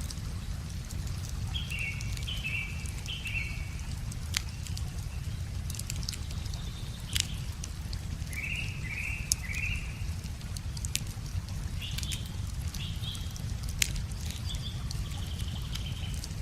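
Wood fire crackling with scattered sharp pops, while a songbird sings short phrases of three quick notes twice, with other short calls after, over a steady low rush.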